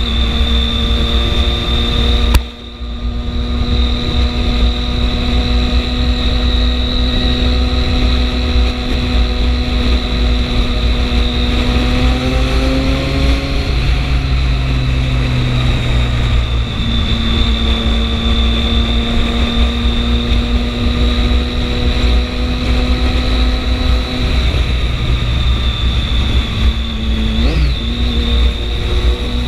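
Triumph 675 three-cylinder motorcycle engine running at a steady speed under way, over a heavy low rumble. The sound dips briefly about two and a half seconds in, and the engine note shifts slightly in pitch around the middle.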